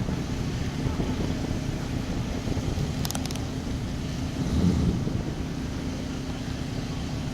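A car engine running steadily with a low rumble, swelling briefly about four and a half seconds in.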